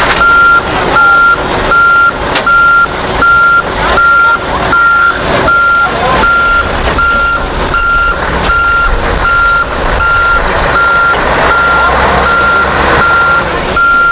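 Vehicle reversing alarm beeping at one steady pitch, about every three-quarters of a second, stopping near the end, over a continuous background din.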